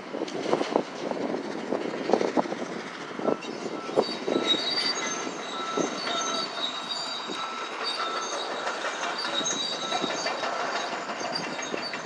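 Excavator demolishing a building: irregular knocks and clatter in the first few seconds, then a steady high metallic squeal from about four seconds in.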